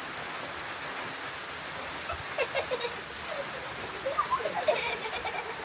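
Heavy rain falling steadily. From about two seconds in, short high-pitched vocal sounds come and go over it.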